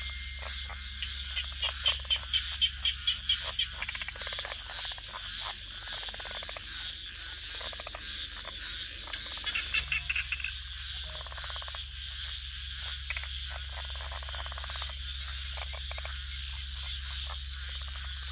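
Frogs calling in runs of rapid pulses, loudest near the start and again about halfway through, over a steady high-pitched insect chorus.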